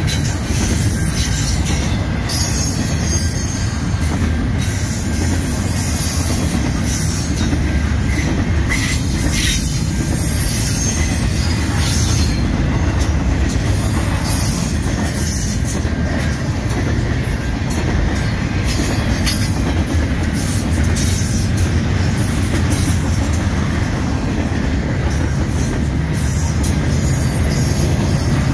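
Double-stack intermodal freight train's DTTX well cars rolling past close by: a steady, loud rumble of steel wheels on the rails, with a continuous high hiss from the wheels.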